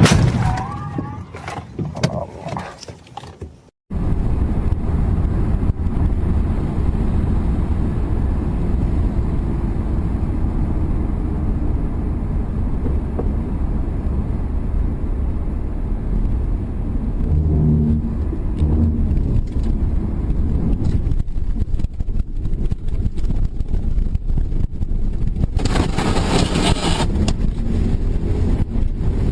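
Sound fades out to a moment of silence about four seconds in, then a steady low rumble of a moving vehicle with wind on the microphone takes over, with a louder rushing burst near the end.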